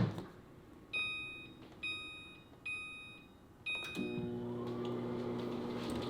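Microwave oven keypad beeping four times, about a second apart, then the oven starting up and running with a steady hum.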